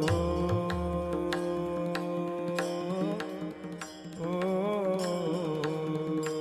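Marathi devotional gavlan being sung: a male voice holds long notes that glide up and down over steady held accompaniment, with regular percussion strokes. The music dips briefly past the middle, then the singing picks up again.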